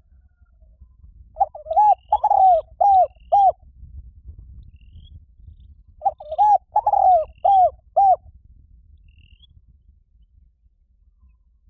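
Spotted dove cooing: two phrases of four to five arched coo notes each, the second following about four seconds after the first.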